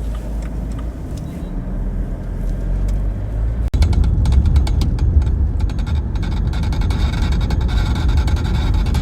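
Cabin sound of a BMW 320d diesel under way. About four seconds in, the engine and road sound grow suddenly louder as it pulls harder, with a run of quick clicks and rattles. The rattle comes on under acceleration and is caused by a broken handbrake-cable bracket letting the cable strike the propeller shaft.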